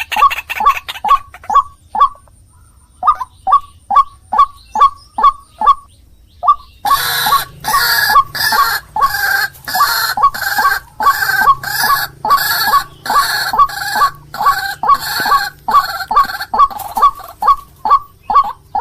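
White-breasted waterhen (ruak-ruak) calling, a lure recording: short harsh notes repeated about two to three a second, with a brief pause around two seconds in. From about seven seconds in, a louder, rougher layer of overlapping calls joins the steady series.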